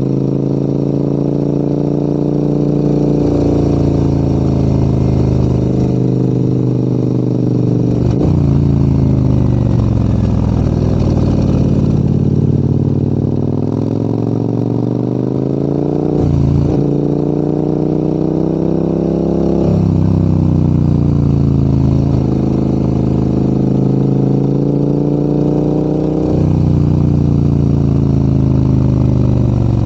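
Large adventure motorcycle's engine pulling uphill: the engine note rises and falls repeatedly with the throttle, and breaks sharply a few times at gear changes.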